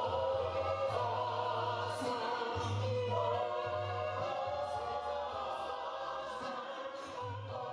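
Choir singing church music over a low bass line, the sound slowly fading toward the end.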